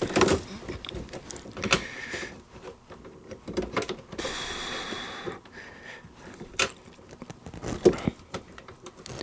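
Hand-turned wing nuts being unscrewed from the cap of a raw-water strainer: scattered metal clicks and knocks, with a brief scraping noise about four seconds in.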